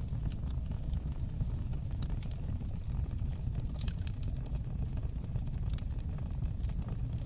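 Fire burning in a stone fireplace: a steady low rumble of the flames with scattered sharp crackles and pops, a small cluster of them about four seconds in.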